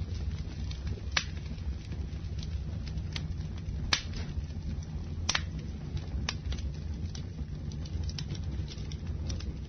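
Campfire burning: a steady low rumble of flames with irregular sharp crackles and pops from the wood. The loudest pops come about one, four and five seconds in.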